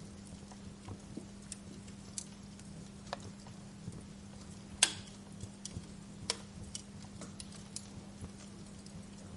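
Wood fire crackling in a fireplace: irregular small pops and snaps, with one sharp, louder pop about halfway through. A low steady hum runs underneath.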